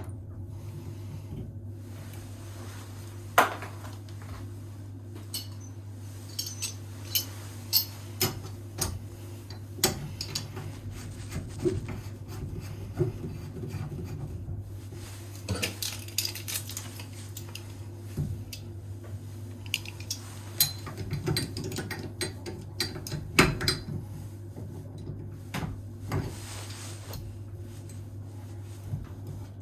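Irregular metallic clinks and knocks of tools and fittings being handled during bathroom faucet work, over a steady low hum.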